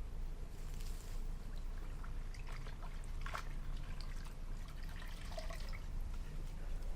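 Water dripping and splashing in small, irregular bursts as an old wooden window frame is washed.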